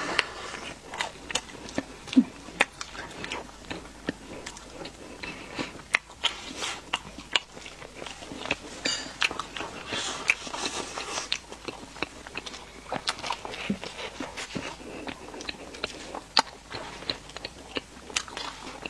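Close-miked eating: biting and chewing soft layered cake and pastry, with many short wet smacks and crisp crunches, busiest about ten seconds in.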